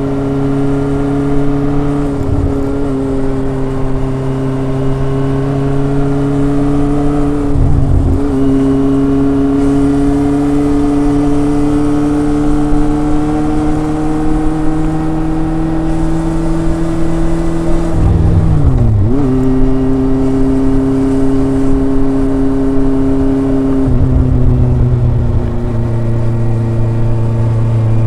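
Kawasaki ZRX's inline-four engine and exhaust pulling under way, the pitch climbing slowly. The revs dip briefly and pick up again about 8 and 19 seconds in, as at gear changes.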